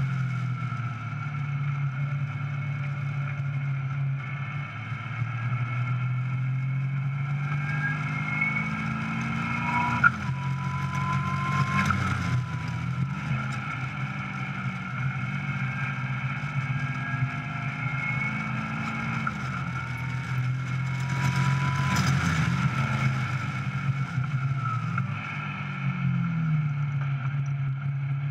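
Caterham Seven 420R's 2.0-litre Ford Duratec four-cylinder engine heard onboard at speed on track, its pitch climbing and dropping again and again as it is driven through the gears, with wind rush over the open cockpit. A sharp crack about ten seconds in.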